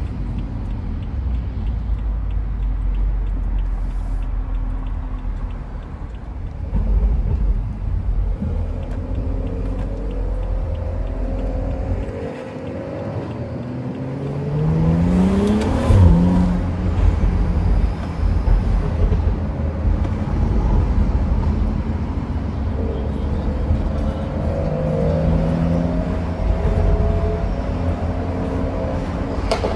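Car engine pulling under acceleration while driving, heard from inside the car. Its pitch rises several times as it climbs through the revs, with a short lull in the middle, over a steady low rumble.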